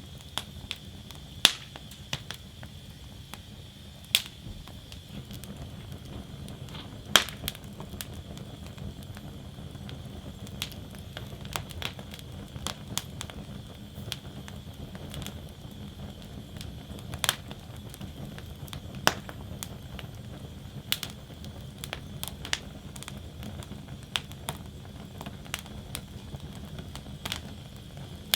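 Wood fire burning in a steel fire basket: a steady low rush of flame under irregular sharp crackles and pops of burning logs, the loudest pops at about one and a half, four and seven seconds in, smaller ones coming more often later.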